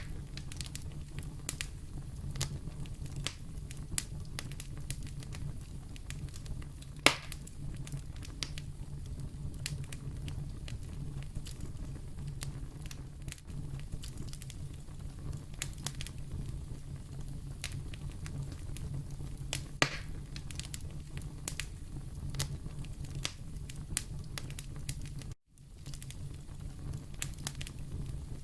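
Fire burning in a fireplace: a steady low rumble with constant scattered crackles and pops, two of them louder, about seven seconds in and about twenty seconds in. The sound drops out for a split second near the end.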